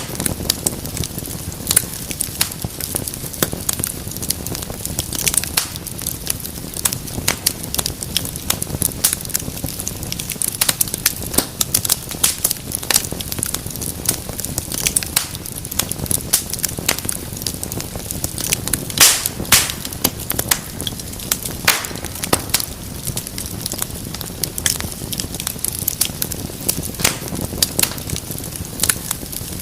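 Wood fire crackling steadily, with many small sharp pops and snaps over a low rumble of flame, and one louder pop about two-thirds of the way through.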